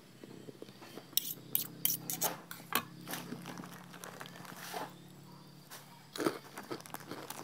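A person chewing crunchy food close to the microphone: a quick run of crunches from about one to three seconds in, then a few more a little after six seconds in.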